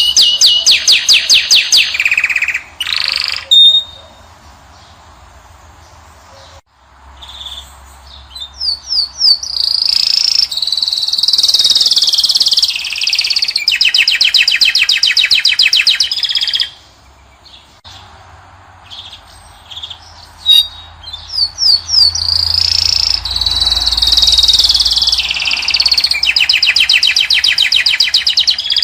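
European goldfinch (Moroccan goldfinch) singing loud phrases of twittering and fast trills, with two short pauses between phrases.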